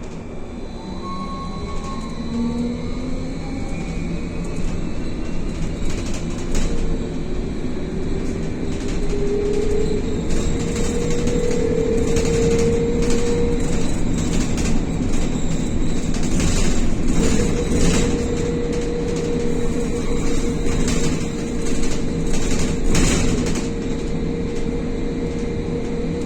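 Interior sound of a BKM-43300D trolleybus under way. The electric traction drive's whine rises in pitch as it accelerates, then holds steady at cruising speed, over a constant road rumble. Occasional knocks and rattles come from the body over bumps.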